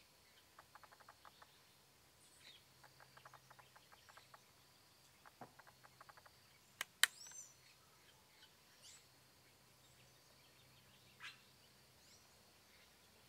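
Faint birdsong ambience: a few short, high upward-sweeping chirps and runs of quick soft ticks, with one sharp click about seven seconds in.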